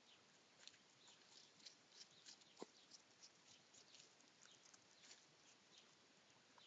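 Faint, irregular clicking and crackling from hedgehogs, with one sharper click about two and a half seconds in.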